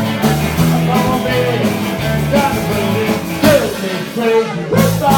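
A rock and roll band playing live, with electric guitar and bass and some singing.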